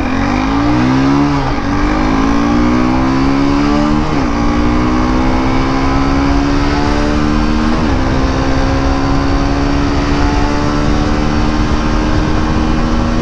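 Hero Hunk 150R ABS motorcycle's single-cylinder engine under full-throttle acceleration from a standstill, its note rising through the gears with three upshifts about one and a half, four and eight seconds in, each later gear climbing more slowly.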